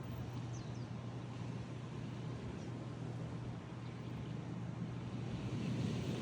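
Outdoor ambience at sunrise: a steady low hum with a few faint, short high bird chirps. The hum swells slightly near the end.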